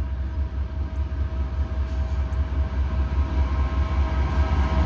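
Approaching diesel-hauled freight train: a deep locomotive rumble with a faint steady engine whine, growing louder near the end.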